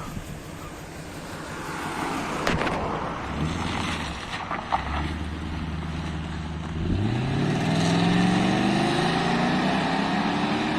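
Audi V8 engine running at low revs, then about seven seconds in the revs climb sharply and keep rising slowly.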